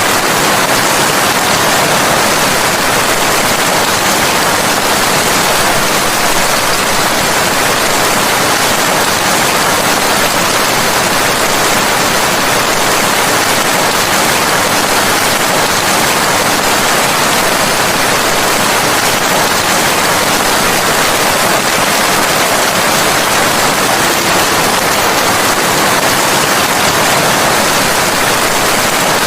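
Rain falling steadily: a dense, even hiss that does not change.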